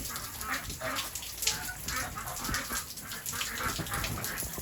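Ducks quacking in many short calls, with water running in the background.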